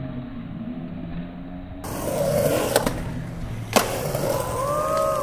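Background music ends about two seconds in. Then a skateboard rolls on concrete, with a light click and then one loud, sharp clack of the board hitting the ground.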